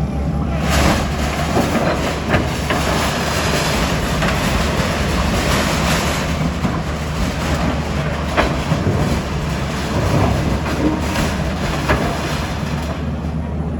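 A heavy engine running steadily, with continuous rattling and clatter and scattered sharp knocks.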